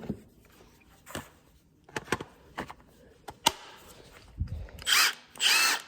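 Power tool batteries and tool cases being handled while rummaging through a tool box: scattered light clicks and knocks, then two loud half-second scraping sounds near the end.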